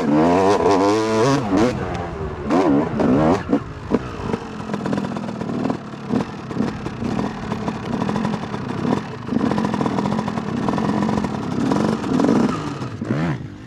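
Dirt bike engine revving hard, its pitch rising and falling repeatedly, then settling into a steadier, lower run that fades away near the end.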